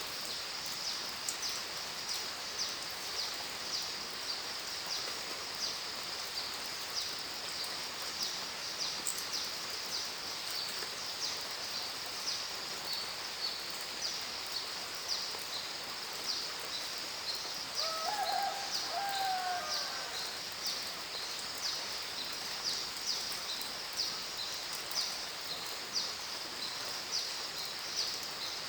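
Steady rain hiss under a high-pitched chirping that repeats about once a second, with a bird calling briefly about two-thirds of the way through.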